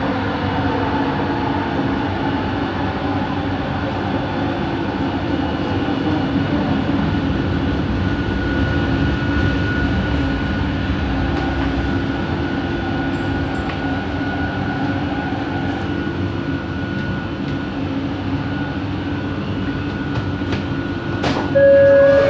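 Bombardier Innovia ART 200 train heard from inside the car while running, driven by its linear induction motors: a steady rumble with a low hum, and a thin high whine that comes in partway through, the weird motor noise of this train. Near the end a click and a short two-note falling chime sound.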